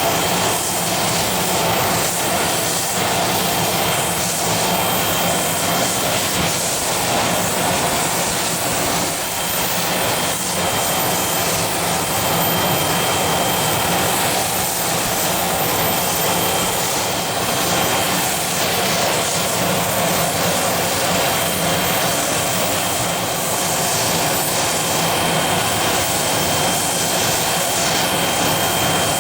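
Business jet's turbine engines running steadily, a dense even rush with a thin high whine.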